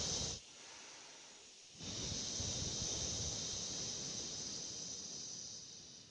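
Triple warmer healing sound: a long, breathy exhaled 'heee' that hisses through the mouth. It stops about half a second in for a quiet inhale, then starts again near two seconds and slowly fades out near the end.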